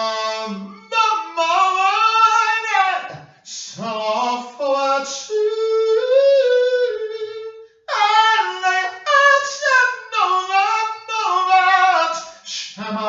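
A high solo voice singing without accompaniment, in phrases of long held and sliding notes with short breaths between them.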